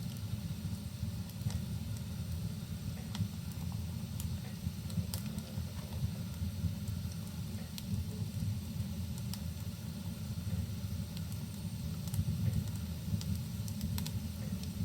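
Wood fire crackling, with scattered sharp pops and snaps over a steady low rumble and hiss of rain and burning.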